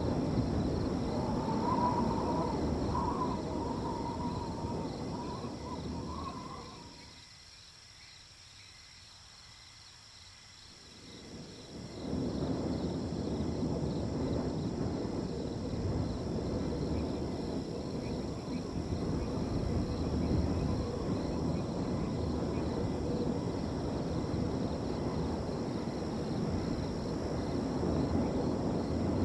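Wind blowing across open ground in gusts, dying away for a few seconds about a third of the way through and then rising again, over crickets trilling steadily.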